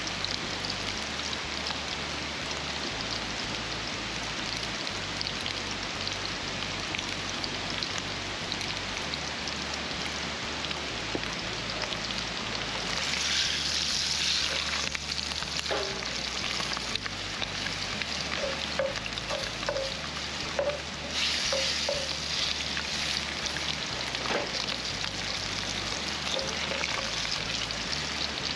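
Hot dogs and bratwurst sizzling as they fry, a steady crackling hiss that swells louder twice, about halfway through and again a little later.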